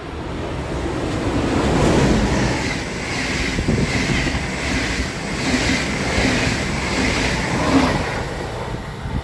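Train passing at speed, louder over the first two seconds, then a steady rush of wheels and air with a regular clatter about twice a second.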